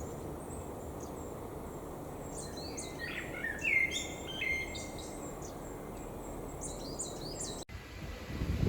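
Small birds chirping and singing over a steady low hum of outdoor background noise, the calls busiest in the middle; the sound cuts off abruptly near the end.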